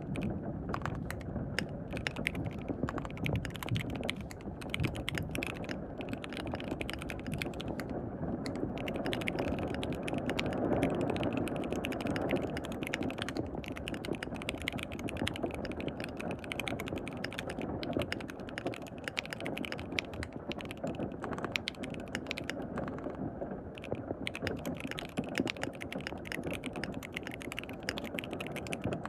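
Continuous fast typing on a KBD67 Lite R3 custom mechanical keyboard with lubed linear switches and lubed Durock V2 stabilisers, a dense unbroken stream of keystroke clicks.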